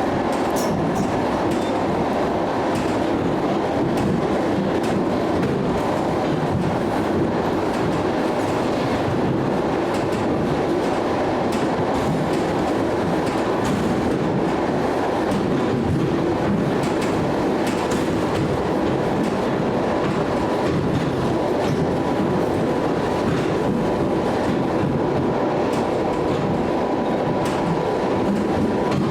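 Steady running noise of a moving ED9M electric multiple unit, wheels clacking over rail joints, with a faint steady whine held throughout.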